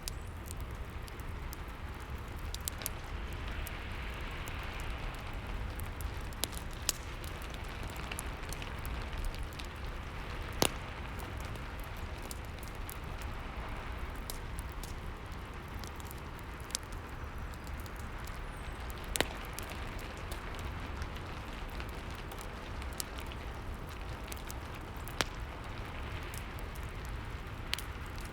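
Rain and fireplace ambience: a steady hiss of rain over a low rumble, with the fire crackling in scattered sharp pops, two louder ones about ten and nineteen seconds in.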